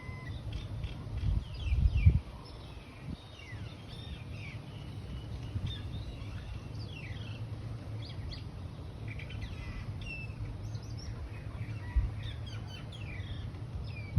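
Small birds chirping and twittering, many short calls with quick downward-sweeping notes, over a steady low rumble. The rumble swells loudest about two seconds in, and there is a short low thump later on.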